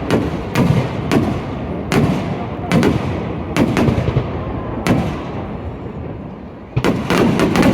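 Aerial fireworks shells bursting in a series of sharp booms about once a second, each trailing off in a rumbling echo. After a brief lull, a quick cluster of bangs near the end.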